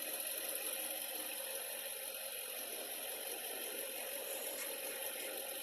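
A steady, even mechanical hum with hiss, unchanging throughout.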